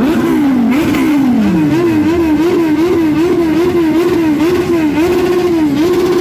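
Big sport motorcycle engines revving hard. One engine is held high in its revs with the throttle pumped about twice a second, then held flat near the end, with other bikes revving underneath.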